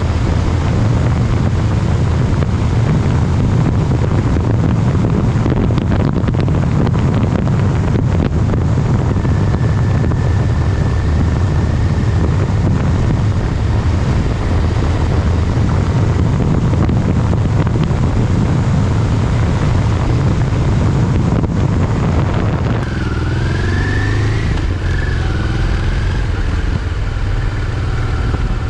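Motorcycle riding along with heavy wind rush over the microphone. About three-quarters of the way through the wind noise drops and the engine note comes through clearly: its pitch rises and falls, then holds at a steady lower note.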